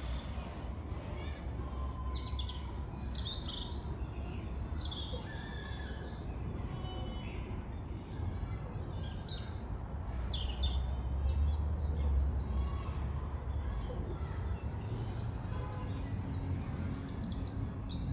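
Several small birds chirping and singing in short trills over a steady low rumble of distant road traffic, which swells briefly about two-thirds of the way through.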